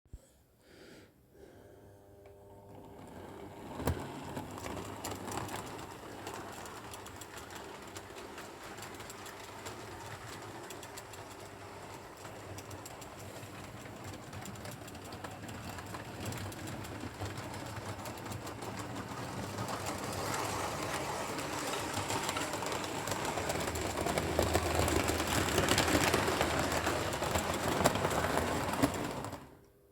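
Model train running on its track: the small electric motors of the locomotives hum and the wheels rattle over the rails, growing steadily louder as the train comes closer, with a sharp click about four seconds in. The sound cuts off suddenly near the end.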